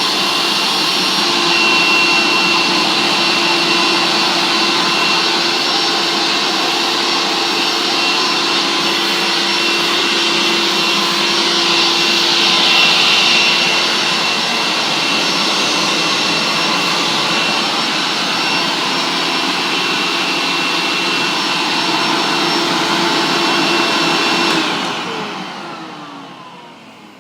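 A Hoover S 4042 vacuum cleaner runs with a steady whine, then is switched off about three-quarters of the way in, its motor winding down with a falling pitch.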